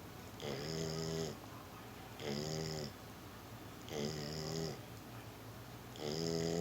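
Sleeping dog snoring loudly: four drawn-out snores about every two seconds, each a low pitched note with a breathy hiss on top.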